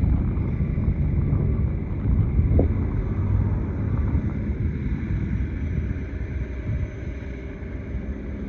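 Wind buffeting the microphone over a steady low rumble, with the loudness flickering rapidly and never dropping away.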